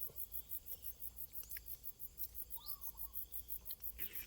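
Crickets trilling in a high, evenly pulsing chorus, several pulses a second, with a few faint chirps from other insects or frogs and a short rustle near the end.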